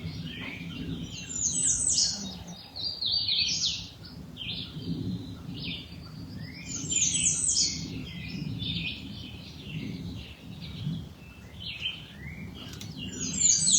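Songbirds singing: overlapping chirps and quick trills, with the loudest phrases about two seconds in, around seven seconds, and again near the end.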